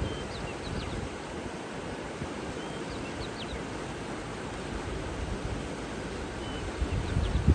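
Steady rushing water ambience with faint, scattered short chirps from small birds, and a low rumble swelling near the end.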